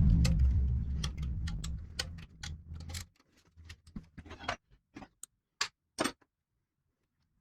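Hand ratchet wrench clicking in quick, uneven runs, over a low rumble that ends about three seconds in; the clicks thin out and stop about six seconds in.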